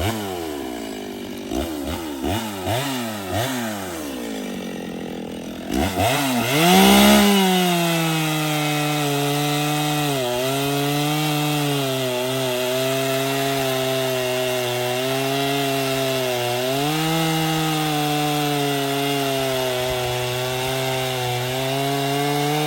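Echo CS-6700 two-stroke chainsaw blipped several times in short revs, then opened to full throttle about six seconds in and held there cutting wood, its pitch dipping slightly under load twice.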